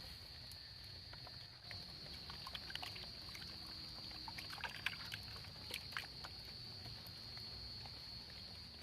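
Forest ambience: a steady high-pitched insect drone over a low rumble, with scattered small clicks and taps, most of them in the middle.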